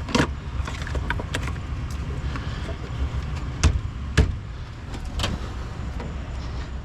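Scattered sharp clicks and knocks from a junk car's key and switches being worked, over a steady low rumble. No window motor runs: the car's power windows are dead.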